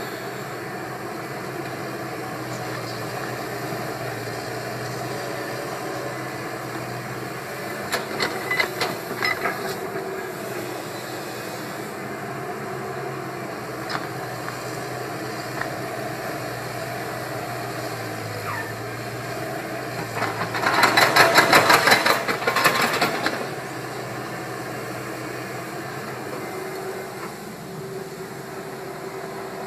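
Caterpillar 320 excavator running steadily, with a short cluster of metallic knocks about eight seconds in and a louder burst of rapid rattling lasting about three seconds, two-thirds of the way through.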